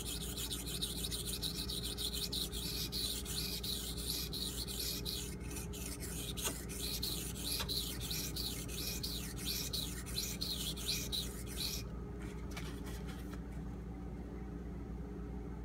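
Knife blade of AUS-8A steel stroked back and forth on a Shapton Pro 1000-grit whetstone, a rhythm of scraping strokes about two a second. The strokes stop about twelve seconds in, leaving a low steady hum.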